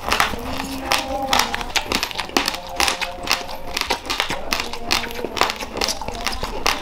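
Raw white rice being chewed: a rapid, irregular run of sharp, dry crunches and crackles as the hard grains break between the teeth.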